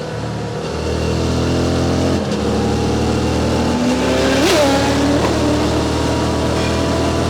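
QJ Motors SVT650X motorcycle engine with an Arrow slip-on exhaust running under way. Its pitch steps down briefly about 2 seconds in and climbs again past the middle. A short sharp sound cuts in about halfway through.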